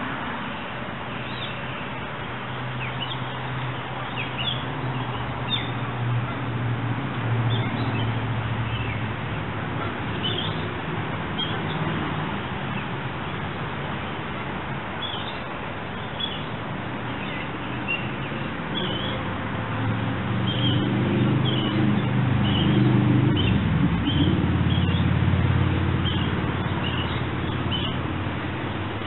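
Birds chirping over a steady background hiss. A low hum rises and fades twice, once a few seconds in and again later on.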